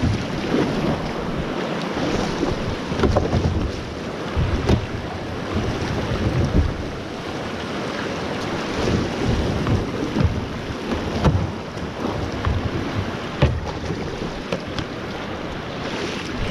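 Water splashing and rushing around a small kayak paddled down a creek, with wind buffeting the microphone in irregular low thumps.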